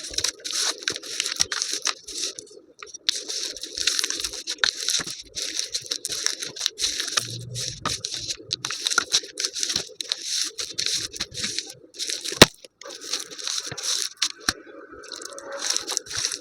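Brittle, powdery material being crushed and crumbled by hand: a dense, continuous run of small crackles and crunches, with one sharper, louder crack about three-quarters of the way through.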